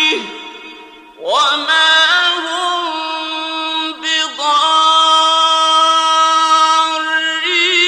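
A male Quran reciter chanting in the slow, ornamented mujawwad style. After a brief dip, his voice swoops up about a second in and then holds one long drawn-out note.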